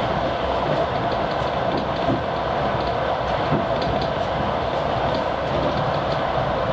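Passenger train running at speed, heard on board: a steady rumble of wheels on rails with the TEP70 diesel locomotive's engine beneath it. Two light knocks from the wheels come about two and three and a half seconds in.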